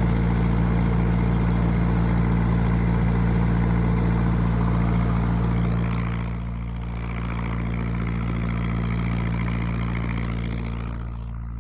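Lincoln SA-200 welder's gas engine running steadily just after a hard cold start at −20. Its level drops somewhat about six seconds in and again near the end.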